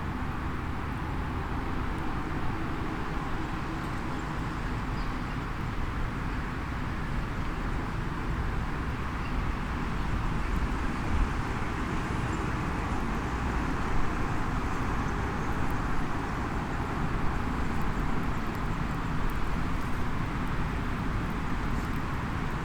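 Faint crackles from a small wood fire in a mini fire pit, over a steady low rumble and hiss.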